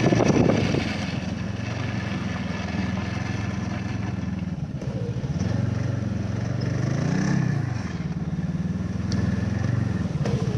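Snowmobile engine running steadily. Its pitch dips and rises a few times around the middle as the throttle changes, and wind buffets the microphone in the first second.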